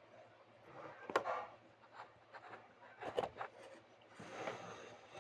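A few short rustling and rubbing sounds with light knocks, near one second in and again around three seconds.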